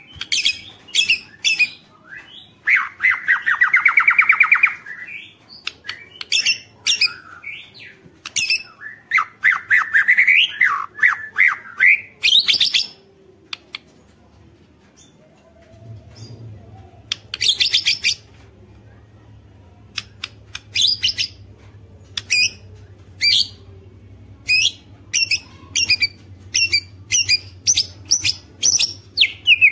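White-rumped shama (murai batu) singing in full voice. It runs through a varied string of whistles, harsh buzzy notes and sharp clicking 'ketrek' notes, with a short lull about halfway through. A faint low hum sits underneath in the second half.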